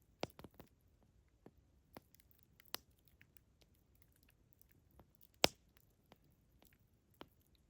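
Campfire crackling: sparse, irregular sharp pops and snaps from burning wood. The loudest pop comes about five and a half seconds in.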